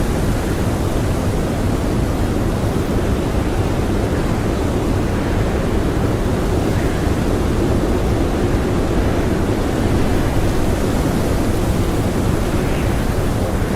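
Blizzard wind blowing steadily and hard, a dense rushing noise heaviest in the low range, with no gusts or breaks standing out.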